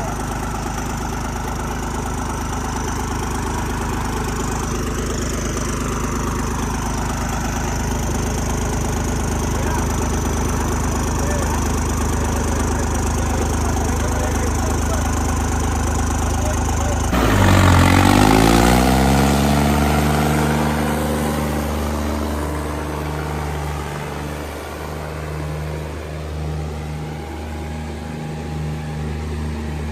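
Tractor diesel engine running steadily. About seventeen seconds in it suddenly gets louder, then its pitch falls and it settles into a lower, steady run.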